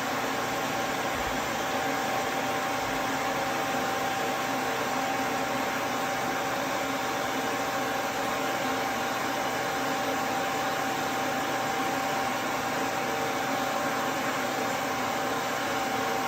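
Duz V3 pet dryer's blower running steadily: an even rush of air with a constant whine.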